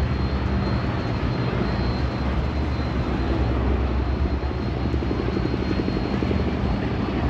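Boeing B-29 Superfortress taking off, its four radial piston engines running at full power in a steady deep drone. A rhythmic propeller throb sets in about halfway through and grows stronger.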